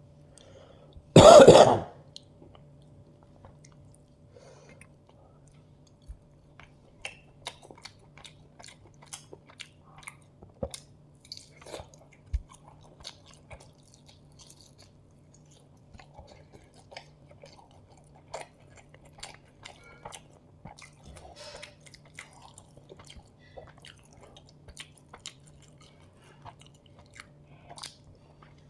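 Close-miked chewing of chicken biryani: a scatter of small wet clicks and crunches as the food is eaten. About a second in, the eater makes one loud throat noise lasting about half a second, a cough or throat-clearing.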